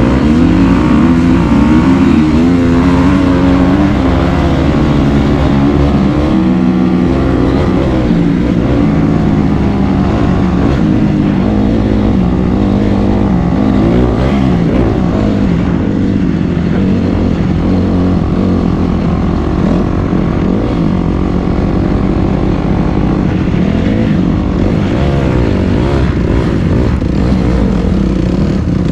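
Dirt bike engine running hard while riding, its pitch rising and falling with the throttle and gear changes.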